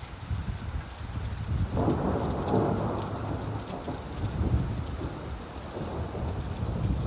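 Steady rain with a low rumble of thunder that swells about two seconds in and fades over the next few seconds.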